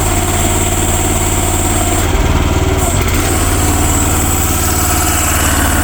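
Future FT15 mini excavator's engine running steadily.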